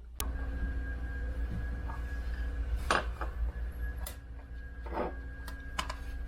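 A few sharp metallic clinks, spaced a second or two apart, over a steady low hum.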